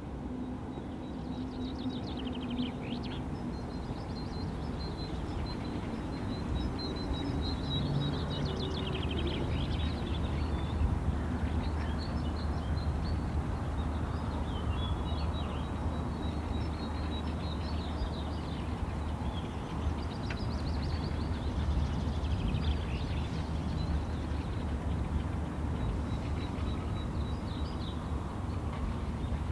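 Wild birds chirping and trilling, with many short high calls overlapping throughout, over a steady low rumble.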